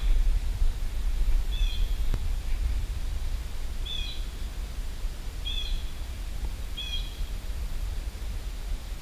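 A bird calling five times in short chirps, about a second and a half apart, over a steady low background rumble.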